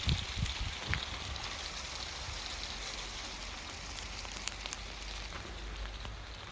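Rain mixed with sleet falling steadily: an even hiss with scattered sharp ticks of drops and ice pellets striking, and a low rumble in the first second.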